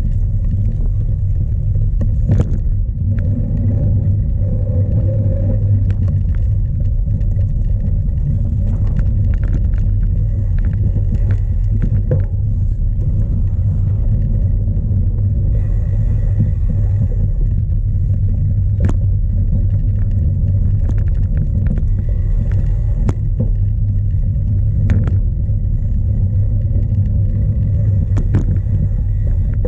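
Strong wind buffeting the microphone of a camera on a racing cyclocross bike: a loud, steady low rumble, with scattered sharp clicks and knocks from the Bianchi Zolder Pro rattling over rough ground.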